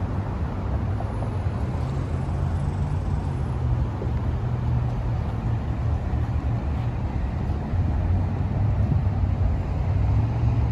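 Dodge Charger SRT Hellcat's supercharged V8 idling with a steady low rumble.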